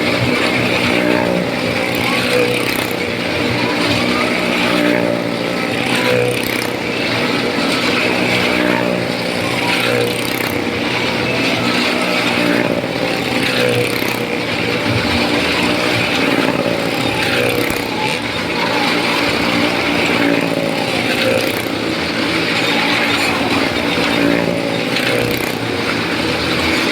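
Engines of stunt motorcycles running hard as they circle the wall of a well-of-death pit. Their pitch rises and falls continuously with no break.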